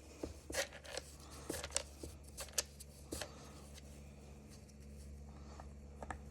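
Light clicks and taps of tools and small parts being handled, about a dozen in the first three seconds and a couple near the end, over a steady low hum.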